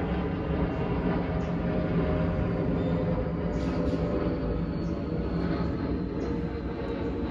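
Machinery running steadily: a low rumble with a constant hum.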